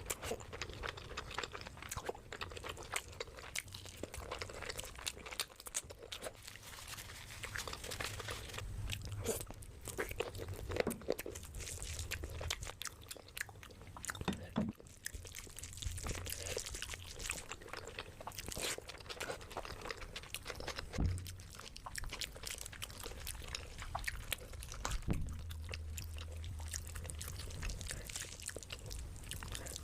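Close-miked mouth sounds of a person eating: chewing and biting food, with many short crunches, wet clicks and smacks.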